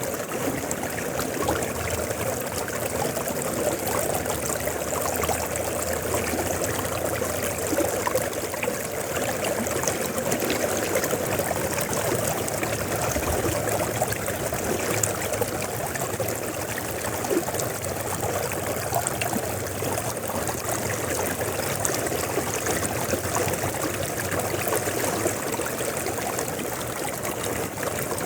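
River water flowing and rippling over its bed, a steady even rush with small splashing trickles.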